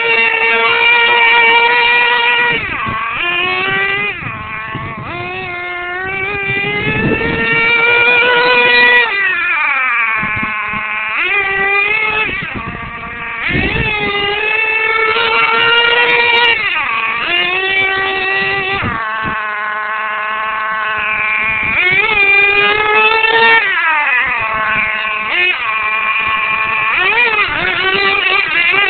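R/C monster truck's small, high-revving engine buzzing at a high pitch, its note repeatedly rising and falling as the throttle is opened and let off, with several deep drops to a low rev between runs.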